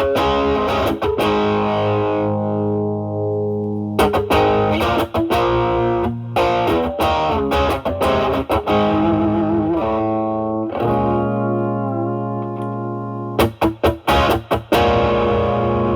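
Overdriven Stratocaster electric guitar played through an Ibanez Tube Screamer Mini into a Marshall Valvestate amp's drive channel: ringing chords and single notes, one shaken with vibrato, with quick choppy strums about four seconds in and again near the end.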